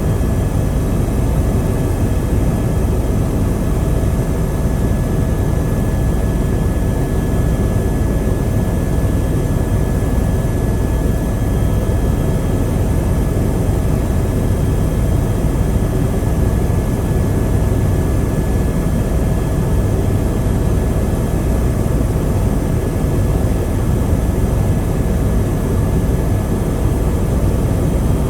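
Helicopter in flight: steady rotor and engine noise with a low rumble and a faint steady whine above it.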